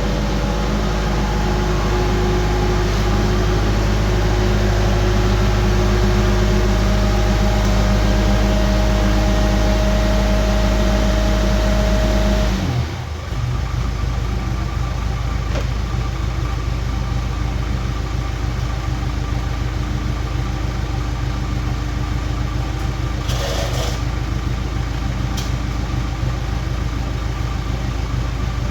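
Skid steer engine running steadily; about halfway through its note changes abruptly and it settles into a steady idle.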